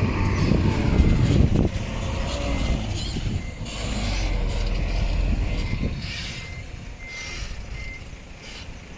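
Heavy diesel earthmoving machinery working: a deep engine rumble, loudest for the first couple of seconds and then easing off. A reversing alarm beeps in short high tones near the end, and there is some metallic clanking.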